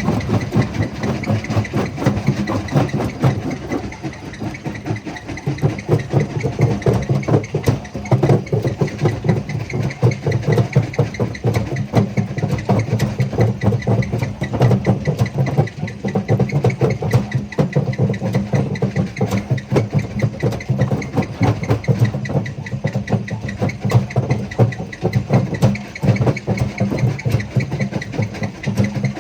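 Jaw crusher running under load: a steady low drone from its drive, with constant irregular knocking and cracking as stones are broken between the jaws.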